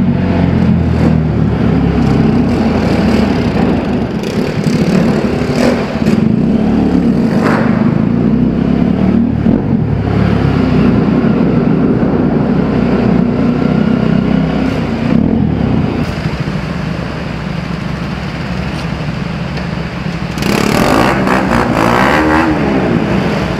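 Bajaj Pulsar 200 motorcycle's single-cylinder engine and aftermarket exhaust running under way, with rushing noise over it. About three-quarters of the way through it eases off for a few seconds, then gets louder again with a rising and falling pitch near the end.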